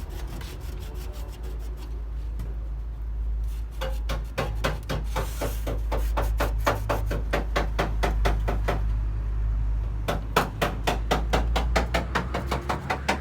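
Quick back-and-forth rubbing strokes, about four a second, as the rusted metal casing of a microwave is scrubbed or sanded by hand to smooth it. The strokes pause briefly about nine seconds in, then resume, over a steady low hum.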